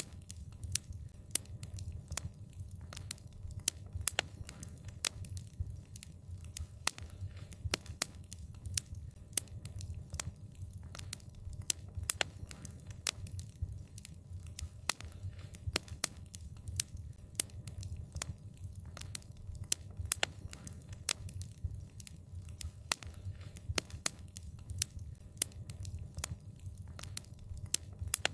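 Wood fire crackling: frequent sharp pops and snaps, several a second, over a steady low rumble of the burning fire.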